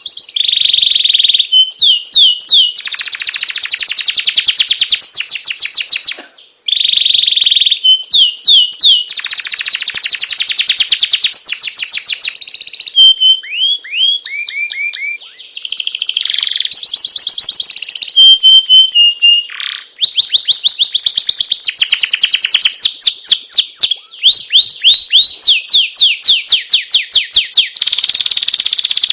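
Songbird training track of spliced canary and cililin song: loud, very fast rolling trills and rapid repeated chirps in back-to-back phrases that change abruptly, with a brief gap about six seconds in.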